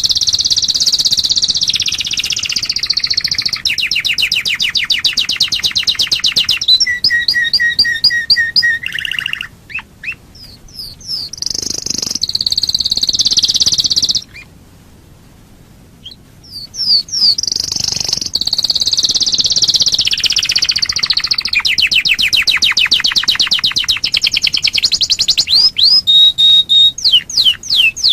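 Domestic canary singing a long, loud song made of rapid rolling trills and quick whistled glides. It breaks off for about two seconds halfway through, then starts up again. This is the kind of recording played as a lure to get other canaries to sing.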